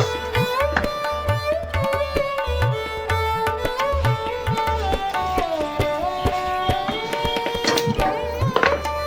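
Indian classical-style background music: a sliding, sitar-like melody over a steady tabla rhythm.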